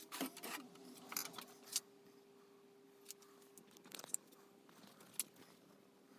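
Faint, scattered clicks, rattles and scrapes of parts and packaging being handled, denser in the first couple of seconds and sparser after, over a faint steady hum.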